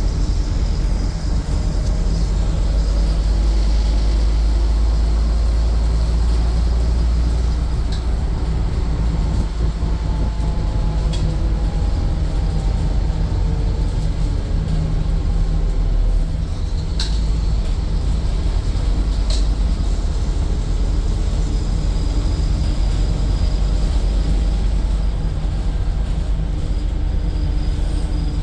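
Scania N230UD double-decker bus's five-cylinder diesel engine and drivetrain running steadily under way, heard from inside the bus. Its pitch slowly rises and falls with speed, and there are a few sharp clicks or rattles from the bodywork.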